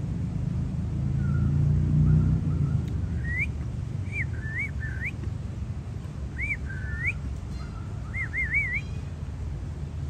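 A bird's short, rising whistled chirps in small groups, with a quick run of three near the end, over a low rumble that is strongest in the first couple of seconds.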